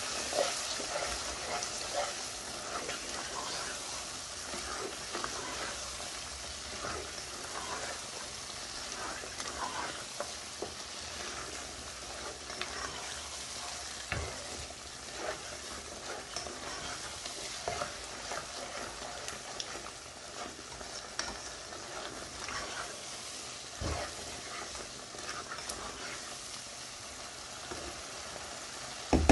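Lamb karahi sizzling in a metal karahi pan as it is stirred, with a spoon scraping and clicking against the pan; the curry is in its last minutes of cooking with coriander just added. Two sharper knocks come about halfway through and again near the end.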